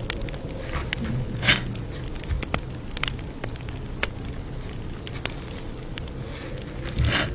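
Campfire burning with a steady low rumble and scattered sharp crackles and pops. There are two louder crackles, about one and a half seconds in and near the end.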